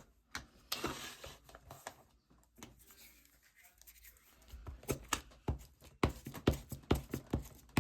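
Hands handling paper and card pieces at a craft table: a brief rustle about a second in, then a run of small taps and clicks in the second half as pieces are set and pressed down.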